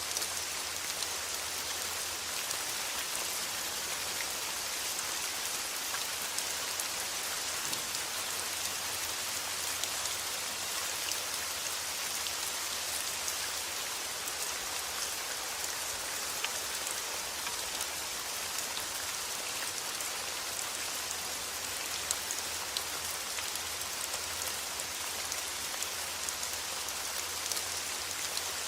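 Steady rain falling, an even, dense hiss sprinkled with countless small drop ticks.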